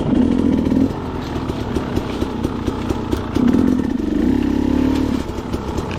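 Two-stroke KTM dirt bike engine at low revs: a short throttle opening at the start and a longer one from about three and a half to five seconds in, with an uneven ticking idle in between.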